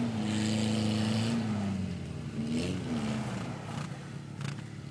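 Car engine revving: held at high revs, dropping away about a second and a half in, a short rise and fall near the middle, then settling lower.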